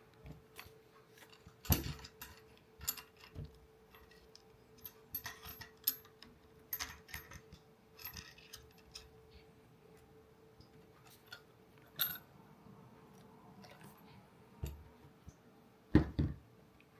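Irregular clicks, taps and a few heavier knocks of small hard parts being handled and fitted together, over a faint steady hum.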